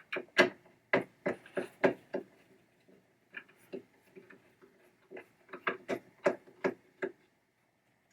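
Irregular sharp clicks and taps of a tool working on small metal parts of a pinball trap door mechanism, in two bursts, stopping about seven seconds in.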